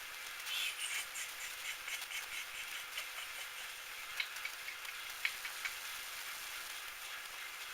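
Small metal lathe running, with irregular scratchy scraping through the first few seconds and a few sharp ticks later on.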